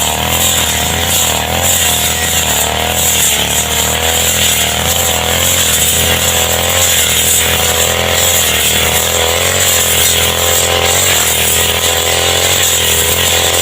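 Petrol brush cutter (grass trimmer) engine running at high speed while cutting roadside grass, its pitch wavering slightly up and down.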